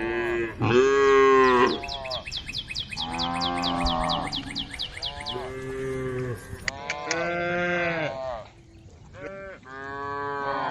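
Several cows mooing one after another, about six long calls with short gaps between them.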